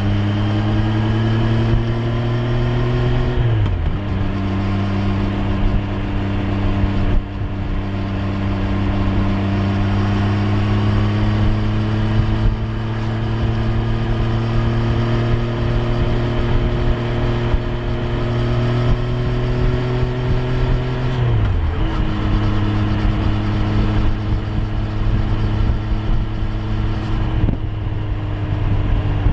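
Triumph Street Triple 765 R's inline three-cylinder engine pulling under way. Its pitch climbs for a few seconds, drops sharply, then rises slowly for a long stretch, drops sharply again about three quarters of the way through, and dips once more near the end.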